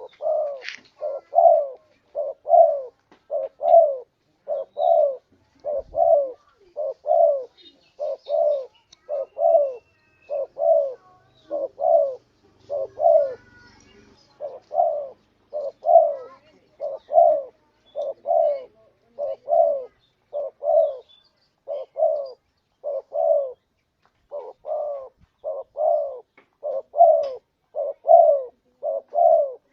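Spotted dove (tekukur) cooing over and over in short, evenly spaced notes, about one and a half a second, with a brief pause about three-quarters of the way through. It is a recorded call used as a lure for dove hunting.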